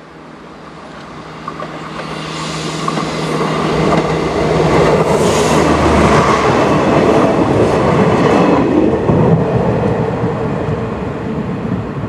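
Diesel multiple unit approaching and passing close by: a low engine hum and rising rumble of wheels on rails, loudest in the middle, then fading as it runs away. A few sharp wheel clicks come through as it nears.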